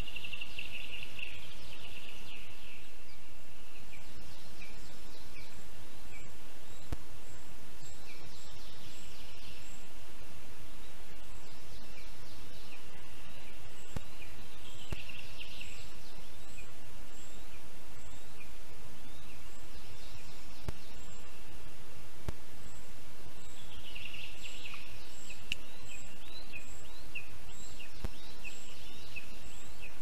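High, thin bird calls in bouts of quick repeated chirps every few seconds, over a steady background hiss.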